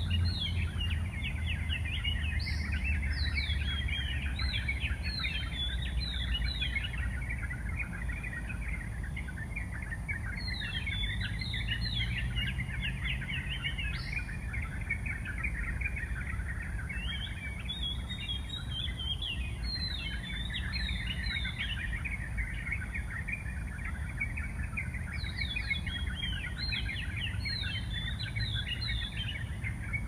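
Birds chirping: a dense chorus of high chirps, broken by four bouts of louder, quick downward-sweeping notes, over a steady low rumble.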